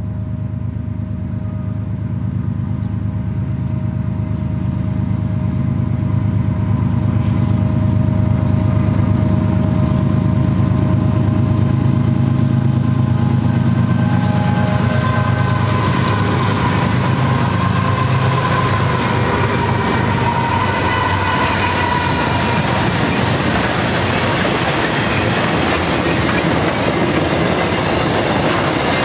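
A BNSF freight train led by several GE ES44C4 diesel locomotives approaches, its engine rumble growing louder, and the locomotives pass about halfway through. Then the rumble and clatter of the intermodal cars, trailers and containers on flatcars and well cars, rolls by on the rails.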